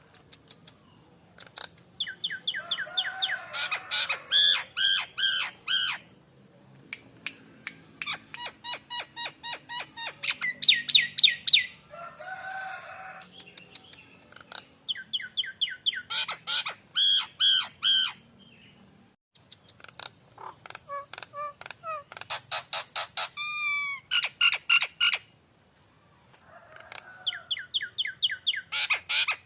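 Nias hill myna calling in bouts of fast, evenly repeated whistled notes, each bout a few seconds long with short gaps between, and a couple of lower, rougher calls mixed in.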